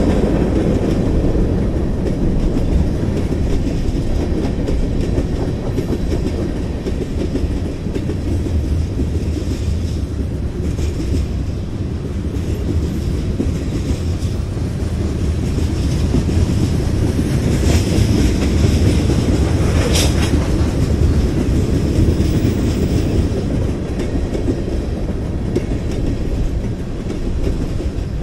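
Freight cars of a BNSF train (tank cars, covered hoppers, a centerbeam flatcar) rolling past, their wheels on the rails making a steady, loud, low rolling noise. A couple of sharper metallic hits stand out about two-thirds of the way through.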